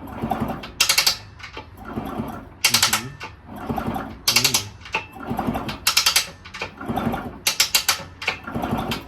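Minarelli P4-70 two-stroke engine turned over slowly by hand with the spark plug out, giving short bursts of clicking and rattling about every one and a half to two seconds. It is being turned to find a crunching noise inside the engine, freshly filled with oil.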